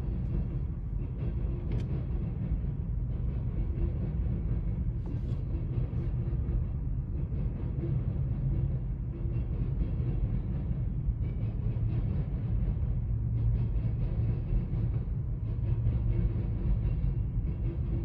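Empty covered hopper cars of a freight train rolling past, a steady low noise of steel wheels on rail.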